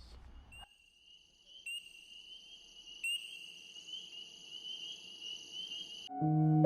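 Crickets chirping in a steady, high, fast-pulsing trill. It gets louder in two steps and cuts off abruptly near the end, when piano music starts.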